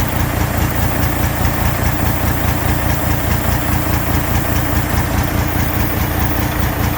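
Mercedes-Benz 4143 8x4 tipper truck's diesel engine idling steadily, with an even low pulse.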